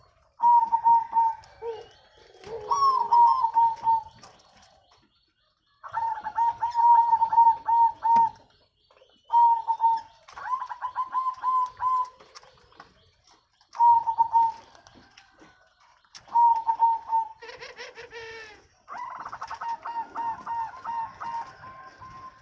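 Zebra doves (perkutut) cooing: repeated phrases of quick, rippling coo notes, one phrase every second or two with short pauses between, growing denser and overlapping near the end.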